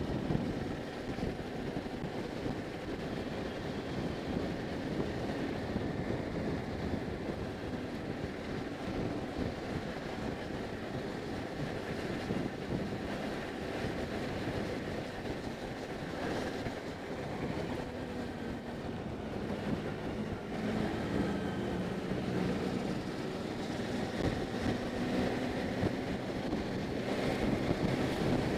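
Motorcycle riding at road speed, with steady wind noise over the microphone and the engine running beneath it; the engine note comes through more clearly in the last several seconds.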